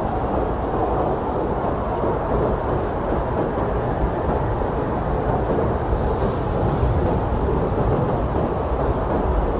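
Strong blizzard wind blowing steadily: a dense, dull rushing noise with a deep rumble underneath, without gusts or breaks.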